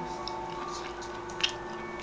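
Close-up eating sounds of someone chewing pan-fried jeon, soft and squishy. About one and a half seconds in there is a single sharp click of wooden chopsticks against the plate.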